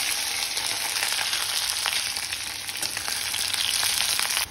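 Sliced onions, garlic and green chillies sizzling loudly in hot oil in a wok, stirred with a metal spatula that gives a few faint clicks against the pan.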